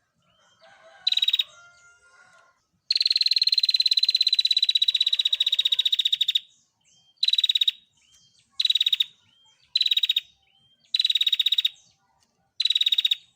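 Female prenjak (a prinia) giving its rapid-fire trilling 'ngetir' call near 4 kHz: one long trill of about three and a half seconds, then a run of five short trills with brief gaps between them.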